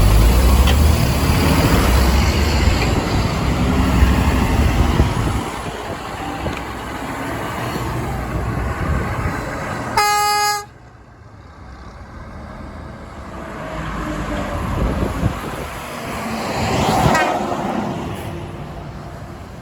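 Heavy truck driving past with a loud low engine rumble, then a short horn blast of one steady pitched note about halfway, cut off abruptly. Another vehicle passes near the end.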